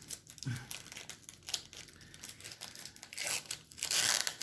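Crinkling of a 1993 SkyBox DC Cosmic Teams trading-card pack wrapper being handled, with scattered small crackles and a louder stretch of rustling about three seconds in.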